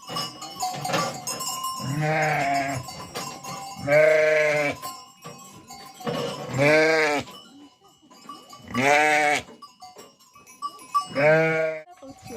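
Ewes bleating, about five long calls one after another, each rising and falling in pitch.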